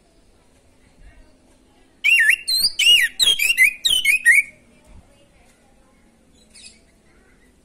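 Orange-headed thrush singing one loud, rapid phrase of about two and a half seconds: looping whistled notes mixed with higher chips. A faint short call follows near the end.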